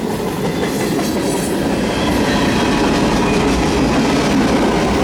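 Freight cars of a long CN mixed freight train rolling past on the rails: a steady din of wheels and rattling cars, growing a little louder over the first two seconds.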